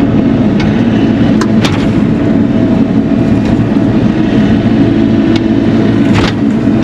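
Bobcat E42 mini excavator's diesel engine running steadily under load, with a few sharp cracks or knocks on top, about a second and a half in and again near the end.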